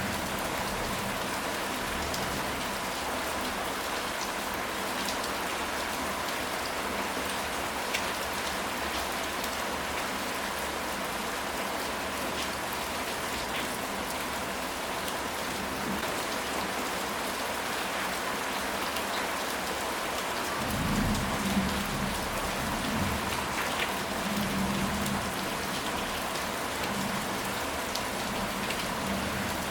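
Steady rain falling, with single drops ticking through the hiss. A low rumble of thunder comes in about two-thirds of the way through and lasts a few seconds.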